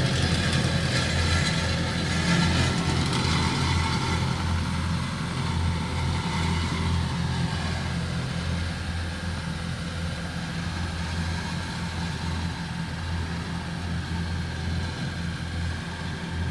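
A vehicle engine running steadily with a low hum, and a higher hiss that eases off after about three seconds.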